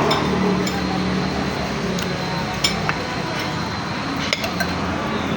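Eating utensils clinking against bowls during a meal of lomi noodle soup: a handful of light, separate clinks over a steady background noise.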